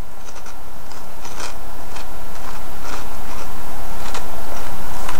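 Crunchy fried pork rinds being chewed, giving short crunches at about two a second.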